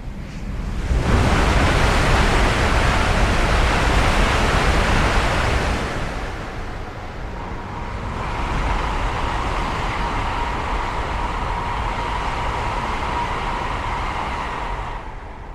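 High-speed EMU train passing at speed: a loud rushing noise of air and wheels that swells about a second in, eases a little after about six seconds, and then carries a steady high whine until it drops away at the end.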